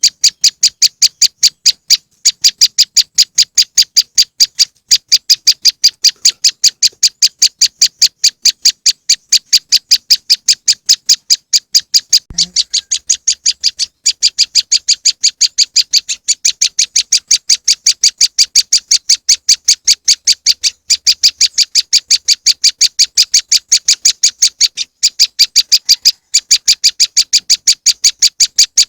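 Bird-lure recording of a prenjak lumut (moss wren) call: a fast, steady series of short, high, sharp notes, about five a second, repeating without change. The run breaks briefly about twelve seconds in, with a faint low thump.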